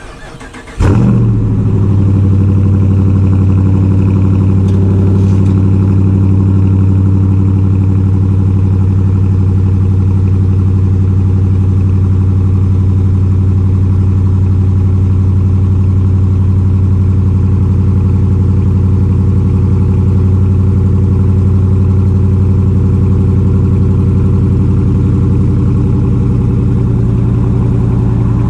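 Dodge Challenger R/T's 5.7-litre HEMI V8 through a Mopar cat-back exhaust, starting with a brief loud flare about a second in and then settling into a steady, deep idle.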